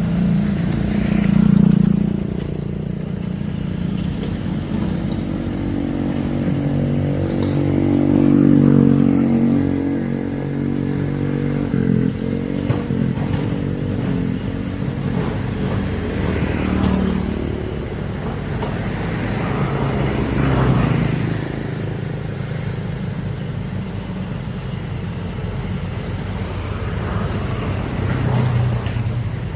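Heavy diesel excavator engine running under working load, rising and falling several times as the machine digs and swings, with occasional knocks from the machine.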